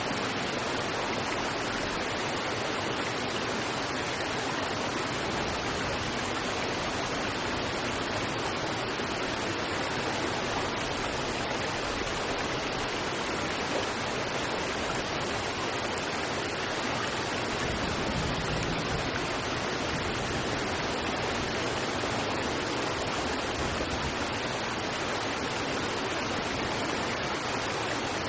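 River water rushing over rocks: a steady, even rush of flowing water with no breaks or changes.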